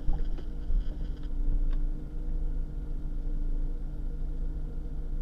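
Steady low running noise of a vehicle's engine and road, with a few faint knocks in the first couple of seconds.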